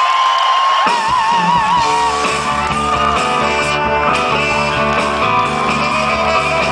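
Live band music with singing: a voice holds one long note with vibrato for the first couple of seconds, then the band plays on in full chords.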